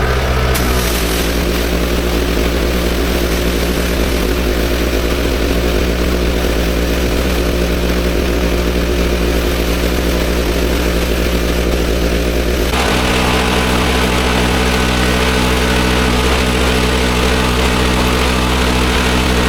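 Engine-driven pressure washer running steadily with the hiss of the water spray. About two-thirds of the way through, the engine note changes and becomes more tonal. The sound stops abruptly at the end.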